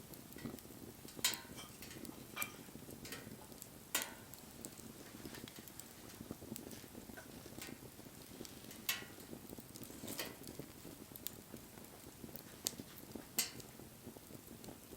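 Wood bonfire crackling: irregular sharp pops and snaps over a soft, steady hiss of burning.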